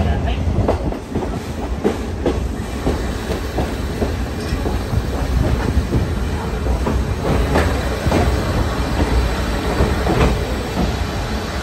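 Steam-hauled passenger coach of the Oigawa Railway rolling along the track: a steady low rumble with irregular clanks and clicks of the wheels over rail joints.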